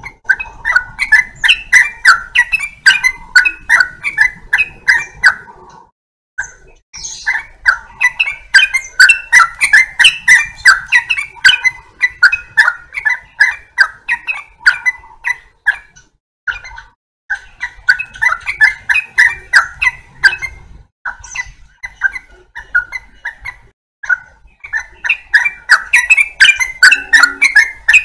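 Yellow-vented bulbul (trucukan) singing: fast runs of sharp, chirping notes, several a second, in phrases a few seconds long broken by short pauses.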